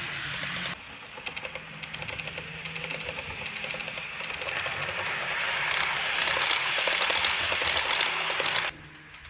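Model train running on a layout: a dense, rapid clicking and rattling of wheels on track together with the running mechanism, growing louder in the second half. The sound drops abruptly about a second in and again near the end.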